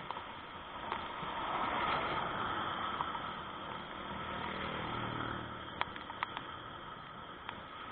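A motor vehicle passing, its engine and tyre noise swelling about two seconds in and its engine hum fading out a few seconds later, over a steady background hiss. A few sharp clicks come near the end.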